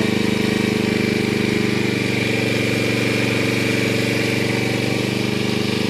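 Small engine running steadily at a constant speed, with a fast, even chugging.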